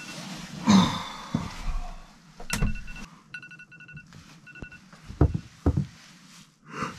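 Electronic beeping: short, even beeps in several quick runs. A rustle comes about a second in, and a few sharp knocks come later.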